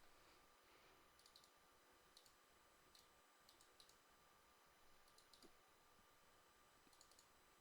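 Near silence with faint, short clicks coming singly and in small groups every second or two.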